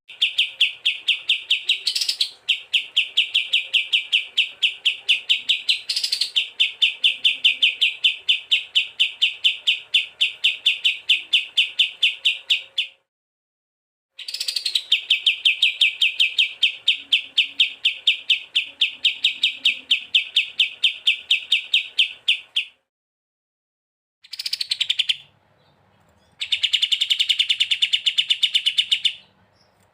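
Songbird call recording for training caged birds: a fast, even chatter of identical repeated notes, in long runs that cut off abruptly into silence and restart, as in a looped, edited track.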